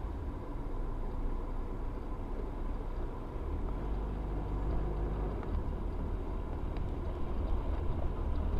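Steady low rumble of a car driving, engine and road noise as picked up by a dashcam's microphone, with a faint thin steady whine over it.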